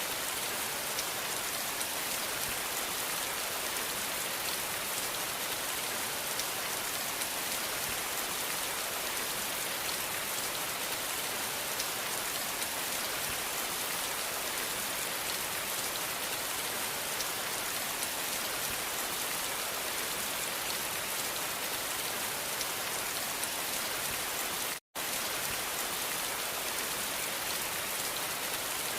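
Steady rain falling, an even hiss that holds the same level throughout, broken once by a split-second gap of silence near the end.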